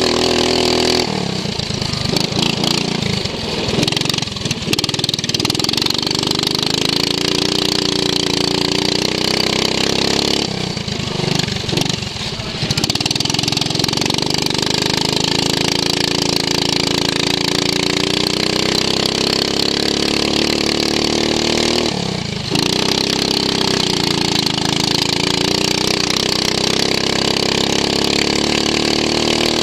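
Racing lawn mower engine heard from onboard, running hard. The revs drop sharply about a second in, around ten to twelve seconds in and about twenty-two seconds in, and climb steadily again after each drop.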